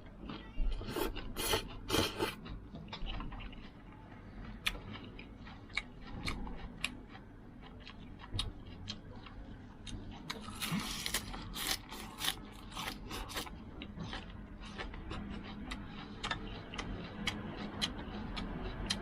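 Someone mixing and eating a bowl of noodles: chopsticks click and scrape against the bowl, with chewing in between. There are longer noisy bursts about a second in and again about eleven seconds in.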